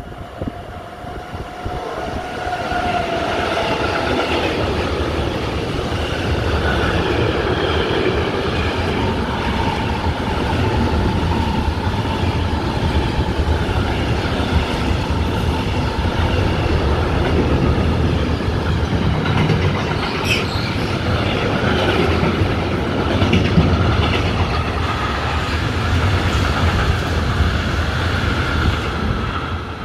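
Freight train of tank wagons behind an electric locomotive passing close by: a steady rumble of wheels on rail that builds about two seconds in, with thin ringing squeal tones over it. There is a sharp clank about twenty seconds in, and the noise fades near the end.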